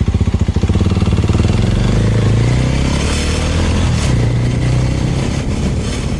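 Suzuki motorcycle engine pulling away and accelerating. Its low note pulses at first, then smooths into a steady run, rising in pitch for a couple of seconds.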